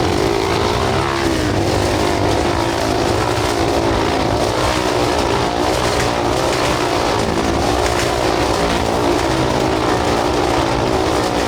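Motorcycle engines running hard and steady as the riders perform, their pitch wavering up and down.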